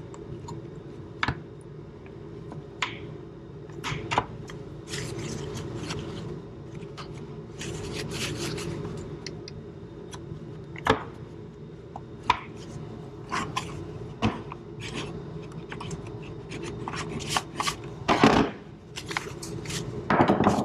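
A paper towel folded over a screwdriver scraping and rubbing back and forth through a Roomba's bin-detection contacts, wiping dirt off them with rubbing alcohol. Irregular scratches and clicks over a steady low hum.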